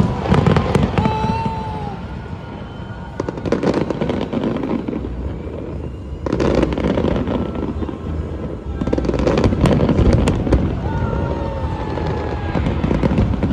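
Fireworks bursting in a rapid, irregular series of bangs and crackles, in dense clusters.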